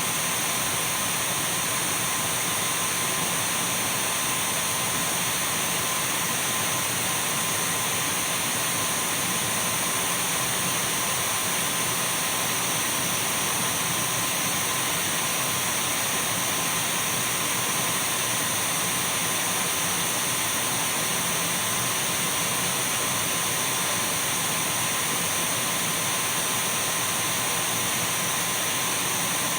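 Dyson V12 cordless stick vacuum running steadily: an even rushing noise with a steady whine in it, unchanging throughout.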